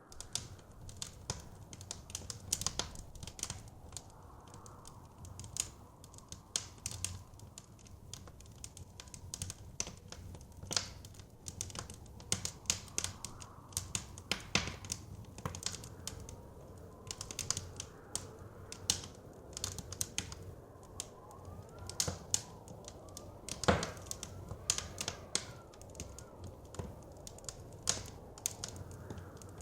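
Wood fire crackling with many irregular pops and snaps, one louder pop late on, over a low rumble and soft whistling of blizzard wind.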